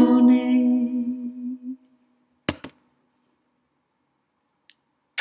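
The song's last ukulele chord and final note ringing out and fading away within about two seconds. Then come two small clicks and, at the end, a sharp knock.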